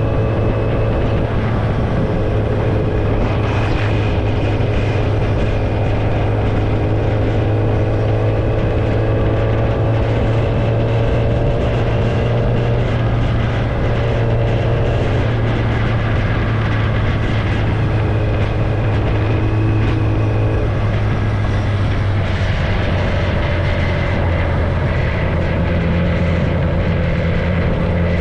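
Kawasaki ZX-10R's inline-four engine running at a steady cruise through an exhaust with no tailpipe. The engine note drifts gently up and down without big revs.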